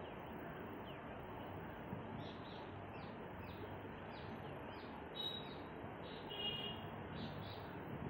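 Small birds chirping: a run of short falling chirps, about two a second, with a couple of brief sharper calls past the middle, over a steady background hiss.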